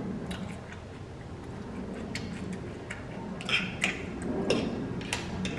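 Eating sounds: chewing with irregular sharp mouth clicks and smacks, a few close together about three and a half seconds in.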